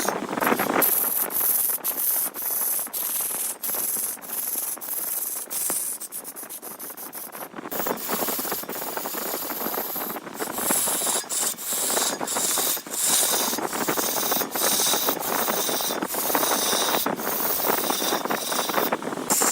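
Wood turning on a lathe with a tool pressed against the spinning workpiece, giving a steady rough rubbing, sanding sound. It is broken by many brief abrupt gaps and thins out for a couple of seconds near the middle.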